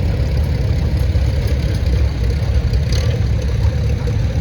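Vintage farm tractor engine running steadily with a low, even rumble.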